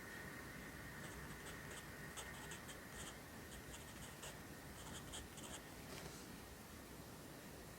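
Pencil writing Korean characters on paper: short, faint, scratchy strokes in quick clusters, with brief pauses between them.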